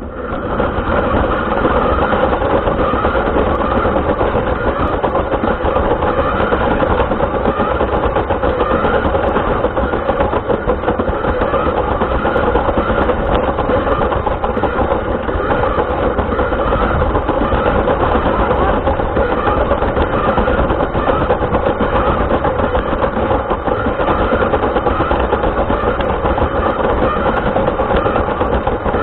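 Small RC car motor and drivetrain running steadily, a loud buzzing mechanical rattle as picked up by an onboard camera; it starts abruptly right at the beginning.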